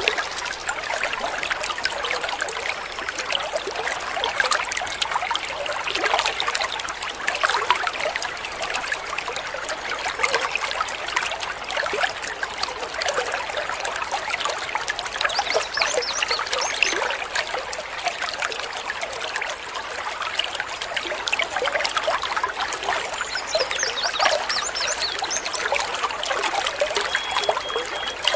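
A shallow stream babbling and trickling over stones in a steady, even patter of water. Near the end a bird gives a few brief high whistled notes.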